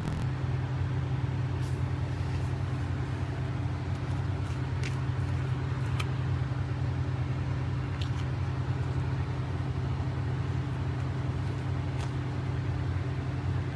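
Electric dog dryer (blower) running steadily, a motor hum under a constant rush of air.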